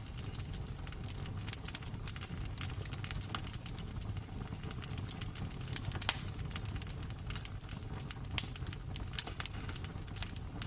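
Wood fire crackling in a fireplace: a steady low rumble of the flames with irregular small crackles and a few sharper pops, one about six seconds in and another past eight seconds.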